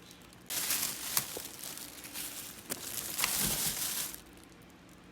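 Packaging crinkling and crackling as it is handled, with a few sharp clicks. It starts about half a second in and stops about a second before the end.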